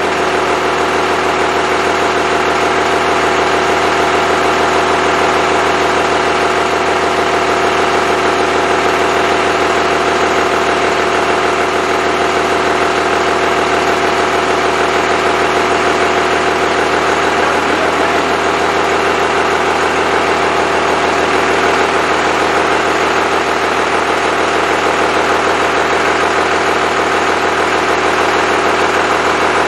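Freshly rebuilt Cummins 5.9L 12-valve inline-six diesel idling steadily.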